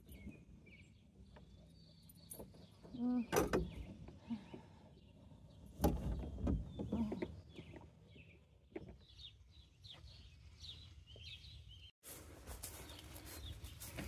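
Birds chirping faintly in the background, with a few brief louder bumps and rustles around three and six seconds in.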